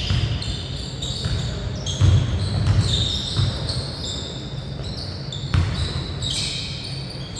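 A basketball bouncing on a hardwood court during play, with players' sneakers squeaking on the floor.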